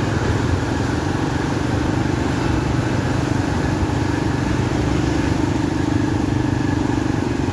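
A small engine running steadily at an even speed over a constant rushing noise.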